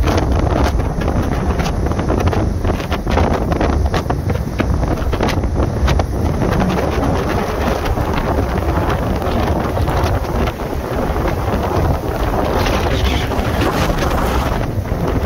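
Tropical-storm wind blasting the microphone: a loud, continuous rumbling rush with constant buffeting.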